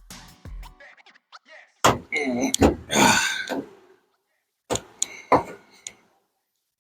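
Hand tools clicking and knocking against metal, with a strained grunt that lasts about a second and a half in the middle. A second cluster of knocks comes near the end.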